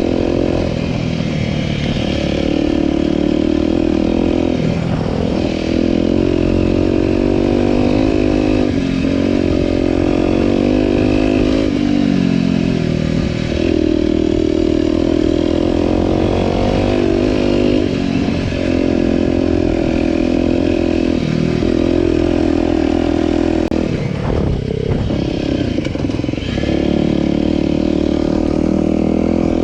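Aprilia RX125 4T's single-cylinder four-stroke engine running through an aftermarket Snell slip-on silencer with its dB killer fitted, while being ridden. The engine pitch holds steady at cruising speed for stretches, then rises and drops several times as the throttle is opened and closed through gear changes.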